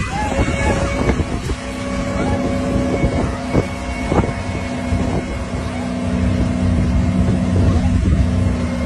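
An engine running steadily with a constant drone, a few short sharp sounds breaking through it.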